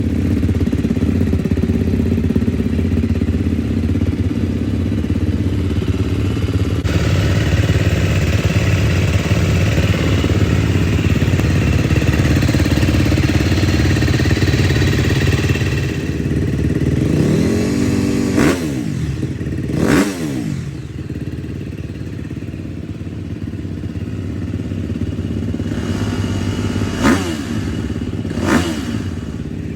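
2019 KTM 250 SX-F's single-cylinder four-stroke engine running steadily through its exhaust. In the second half come four quick throttle blips, each a sharp rise and fall in revs, in two pairs.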